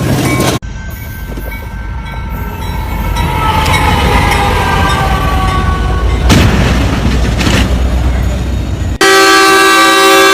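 Train rumbling past with its horn sounding, the horn's pitch falling as it goes by; about nine seconds in, after a cut, a loud steady multi-note train horn.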